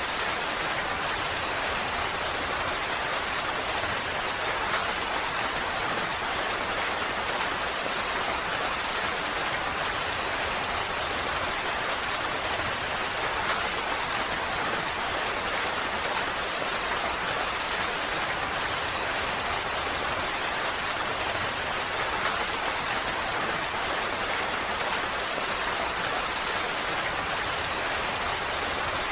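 Steady, even rain falling, with faint scattered drop ticks.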